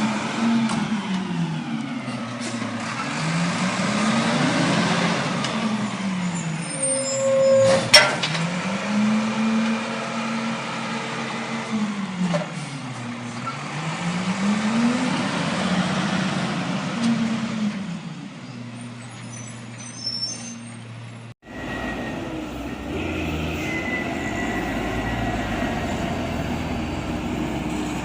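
A truck's motor repeatedly speeding up and slowing down, its pitch rising and falling every few seconds, with a sharp click about eight seconds in. The sound changes abruptly about two-thirds of the way through to a steadier running noise.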